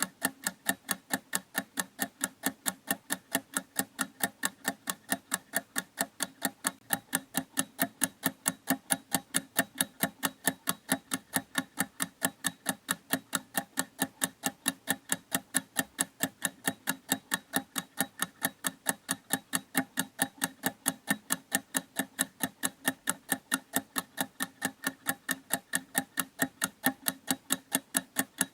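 A clock ticking steadily, with sharp, even ticks several times a second.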